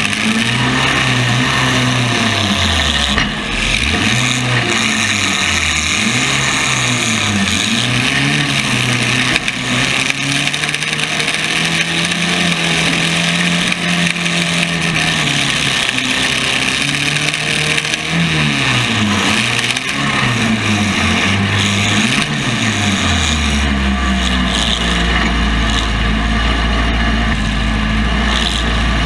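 Demolition derby compact car engines revving up and down over and over, over a steady noisy din. For the last several seconds this gives way to a low steady engine drone.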